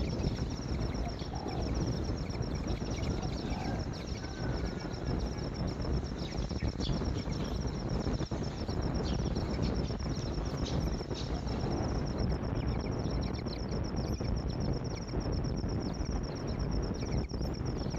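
Outdoor ambience: a continuous high, rapidly pulsing trill over a steady low rumble, with a few faint chirps in the first few seconds.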